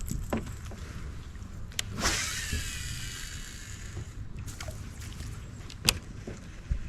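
Fishing reel spool whirring as line pays out on a cast, starting suddenly about two seconds in, its pitch falling as the spool slows over about two seconds. Sharp knocks come just before it and near the end, over a low rumble of wind and water.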